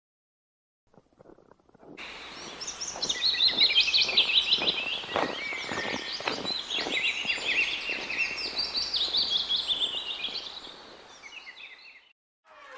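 Many small birds chirping and twittering together, a dense overlapping chatter like a flock, fading in about two seconds in and out near the end.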